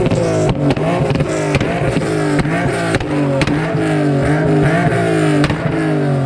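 Car engine with a Tomei exhaust and Motordyne ART pipes revved hard again and again, the revs rising and falling about twice a second. A pop-and-flame tune makes sharp, ear-piercing exhaust pops and cracks all through it.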